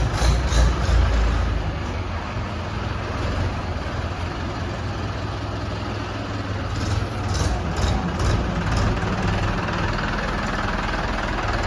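Mahindra 585 tractor's diesel engine idling steadily, a little louder for the first second or so.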